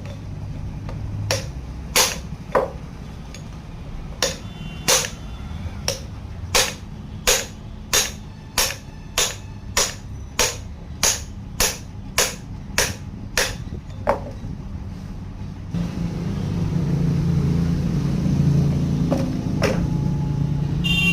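Hammer blows on metal while a gearbox is knocked apart: a steady series of sharp, ringing strikes, about one and a half a second. The strikes stop near the middle, and a low steady rumble sets in for the last few seconds.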